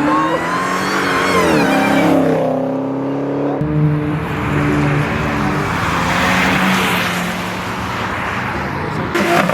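A car engine revving hard and accelerating, its pitch climbing over the first two seconds and then holding high, with a loud rushing noise through the middle. A few sharp pops start near the end.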